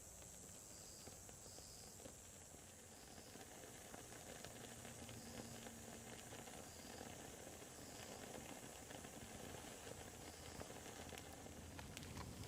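Wood fire burning quietly: a soft steady hiss with a few sharp crackles near the end, growing slightly louder.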